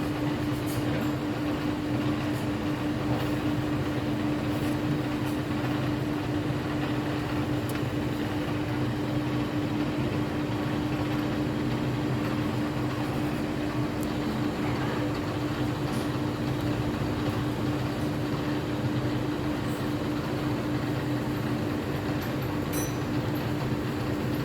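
Metal lathe running steadily at its slowest speed, a constant motor hum with a few faint clicks.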